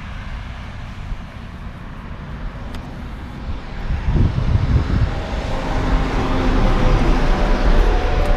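Road traffic: a motor vehicle's engine and tyre noise, getting louder from about halfway through as it comes closer.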